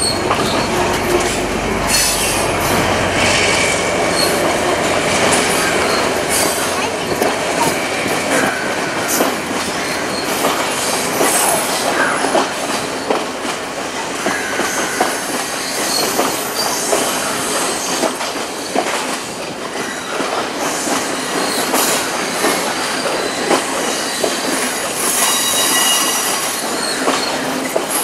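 Sri Lanka Railways diesel train passing slowly over points and curved track. A low engine hum in the first few seconds fades, leaving steady wheel clatter with many clicks over rail joints and points, and high wheel squeal on the curves now and then.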